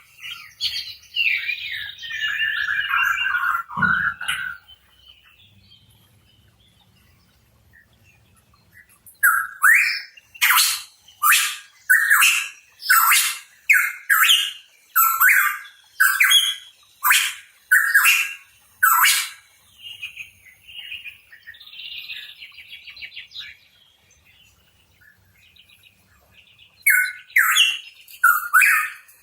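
Pitohui calling: a falling, chattering phrase, then after a pause a long run of loud, sharp notes at about one and a half a second. These give way to softer warbling, and sharp notes start again near the end.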